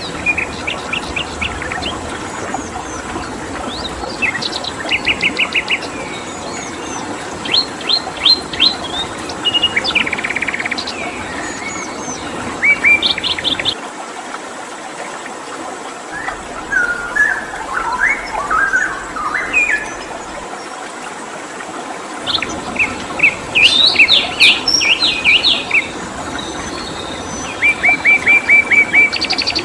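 Songbirds chirping in short bursts of rapid repeated notes, with a lower warbling passage midway, over a steady hiss of running water.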